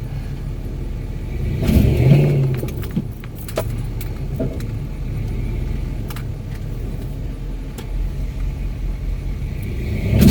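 Pickup truck engine running steadily during a mud recovery pull on a tow strap, with a surge of revving about two seconds in and another near the end, and a few short knocks between.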